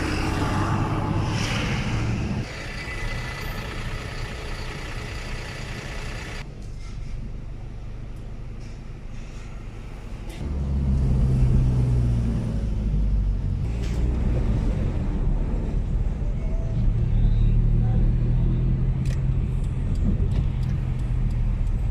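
Heavy engines of city buses and traffic running on the street, a deep steady rumble. It eases off about two seconds in and gets louder again about ten seconds in.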